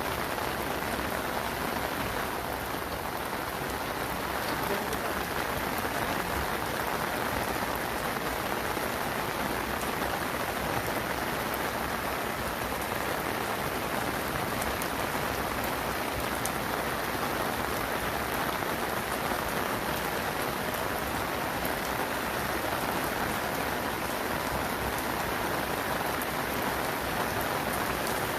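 Steady heavy rain pattering on a surface.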